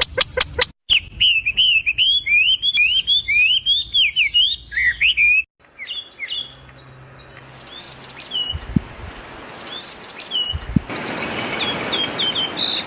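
Birds chirping in quick rising and falling notes, the sound cutting abruptly between separate clips; later the chirps come more sparsely over a steady hiss, with two short low thumps.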